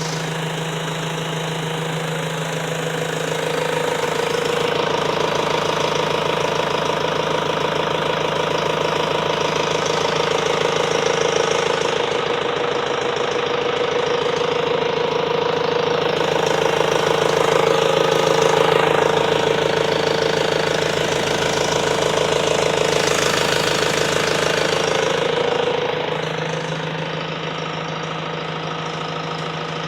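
Ford 2.0 TDDi 100 bhp diesel engine, transplanted from a 2003 mk6 Transit, running steadily, most likely at idle. It gets somewhat louder a few seconds in and settles back near the end.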